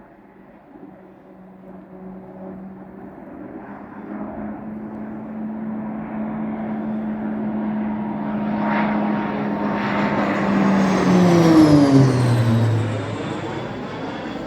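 Low-flying RAF training aircraft approaching and passing directly overhead: its engine hum builds steadily, peaks loudest about twelve seconds in, then falls sharply in pitch as it goes past and away.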